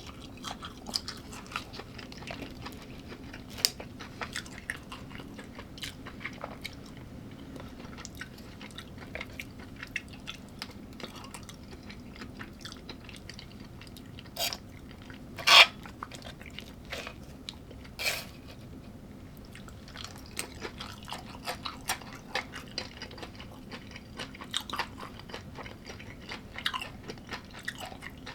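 A person chewing and biting into crunchy food close to the microphone, with many small crunches and a few louder bites, the loudest about 15 seconds in.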